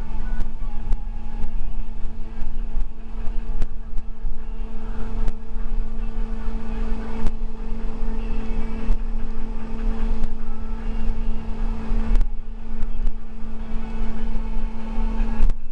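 A moving school bus heard from inside the cabin: low engine and road rumble with a steady drone, and scattered sharp rattles and knocks.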